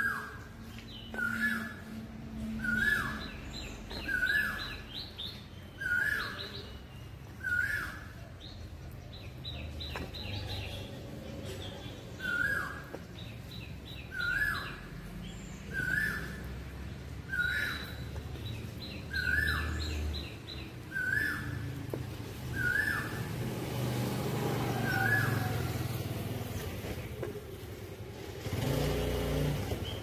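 Birds chirping: one bird repeats a single short, dipping call about every one and a half seconds, with a short pause midway, while other birds twitter in quick higher trills. A low rumble, like distant traffic, swells near the end.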